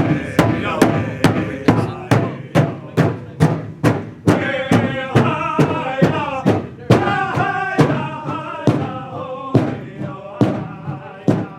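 Powwow drum struck in a steady beat of about two to three beats a second, with group singing that gets louder about four seconds in and falls away near the end.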